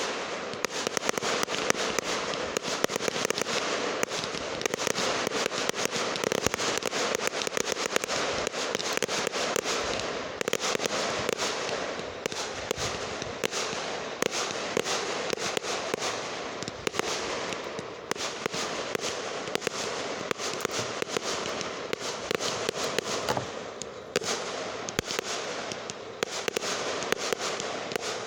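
Fireworks and firecrackers going off together in a dense, unbroken crackle: a rapid stream of pops with sharper bangs scattered through it.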